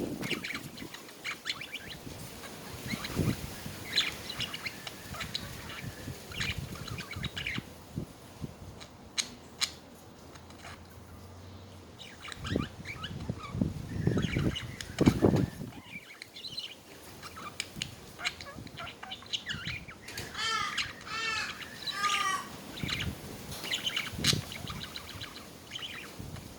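Budgerigars chattering: short chirps throughout and a run of quick warbling notes in the second half, with a few low thuds in between.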